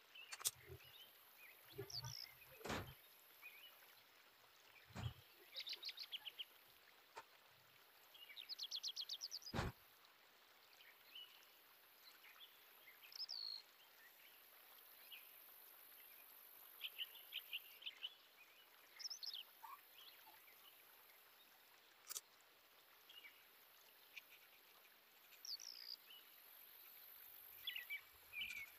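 Faint background chirps and short rapid trills of small birds, with a few soft knocks.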